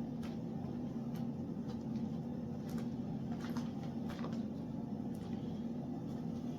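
A steady low machine hum, with faint, irregular clicks and ticks over it.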